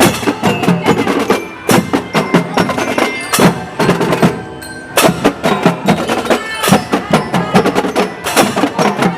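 Elementary-school marching drum band playing: drums struck in a fast, steady rhythm with ringing bell-like tones over them, easing off for a moment around the middle before the full beat returns.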